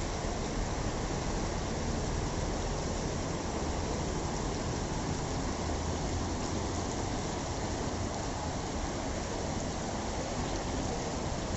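Steady rushing noise of water, even and unbroken, with a low rumble underneath.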